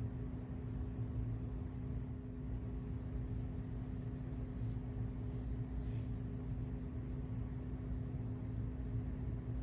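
Steady low hum with a constant tone running through it. A few faint, short high chirps come between about three and six seconds in.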